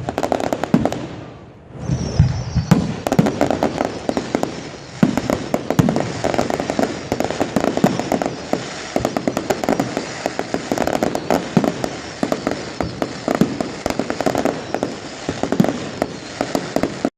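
Fireworks display: a rapid, near-continuous barrage of bangs and crackling. After a brief lull about two seconds in, it runs dense and unbroken.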